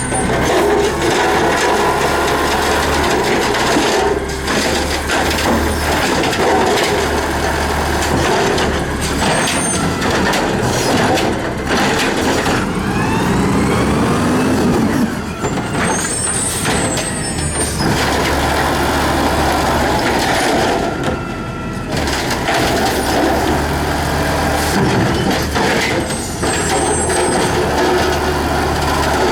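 L.A. City Sanitation garbage truck running loudly, with the low engine sound rising and falling. Brief high squeals come several times, and there are gliding tones about halfway through.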